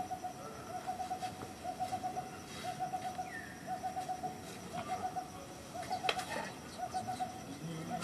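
An unseen animal, most likely a bird, calling over and over: each call a short rapid trill on one steady pitch, repeated about once a second, with a few faint clicks among them.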